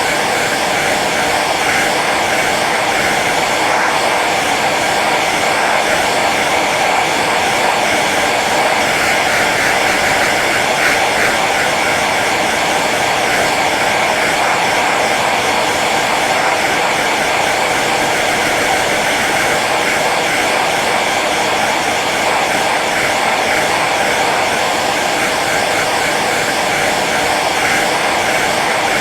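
Hair dryer running steadily on its low setting: an even blowing whoosh of fan and airflow that doesn't change.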